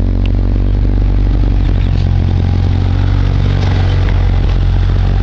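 Honda Civic's LS-VTEC four-cylinder engine running steadily at idle through an open header, during its first start-up run.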